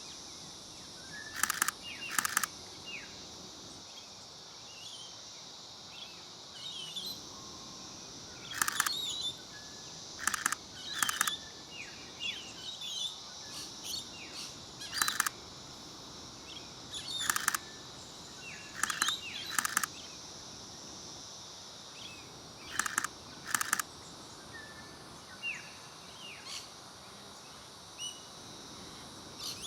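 Nikon Z50ii shutter firing in about a dozen short rapid bursts, with small bird chirps and a steady high insect hiss between them.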